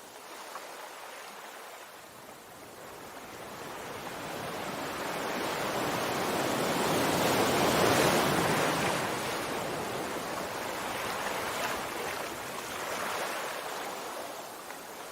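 Sea waves: a rush of surf that swells up to a peak about halfway through and then draws back, followed by a smaller swell near the end.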